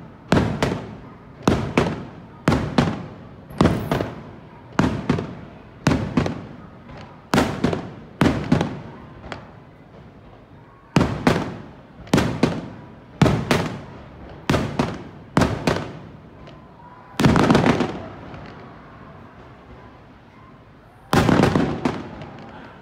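Aerial fireworks shells bursting overhead in a quick series of sharp bangs, each trailing off in an echo, one or two a second. After a short lull in the middle come two longer, louder bursts near the end.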